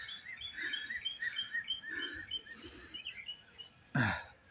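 A songbird chirping: a quick run of short, repeated notes for about three seconds, then a brief louder noise near the end.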